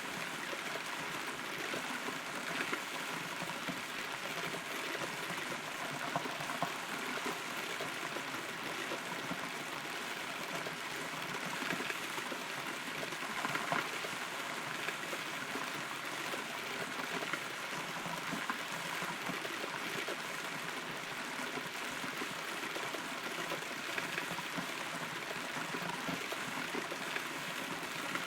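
Steady rain heard from inside a hollow rotten tree trunk: a constant wash of rainfall with scattered louder drops striking nearby.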